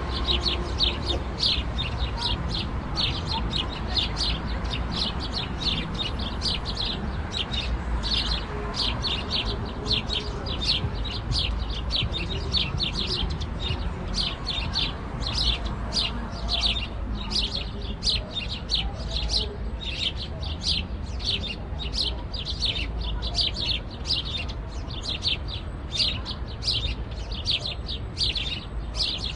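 House sparrows chirping continuously, short high chirps repeated about two to three times a second, over a steady low rumble.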